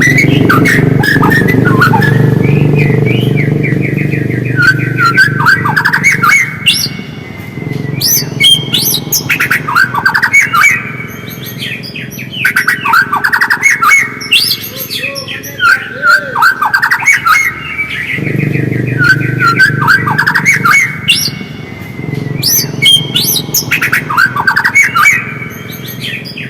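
White-rumped shama (murai batu) singing, bouts of fast, varied chirps, whistles and chatter with short pauses between them. A low rumble runs underneath at the start and again about two-thirds of the way through.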